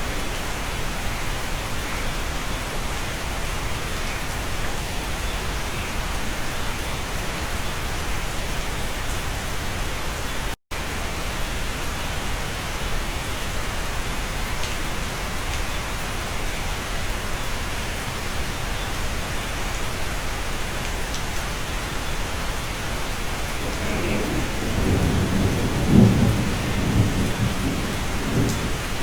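Steady rain heard from inside a cabin. A low roll of thunder rumbles in near the end and peaks briefly before fading. The sound cuts out for a split second about a third of the way in.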